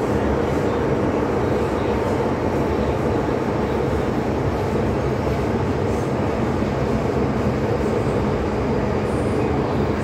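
MTR M-Train electric multiple unit running at steady speed between stations, a constant rumble of wheels on rail and running gear with no change in level.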